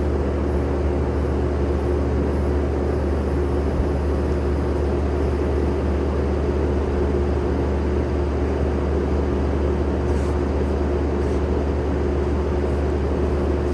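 Skid steer's diesel engine running steadily at a constant speed, a loud, even hum that does not change.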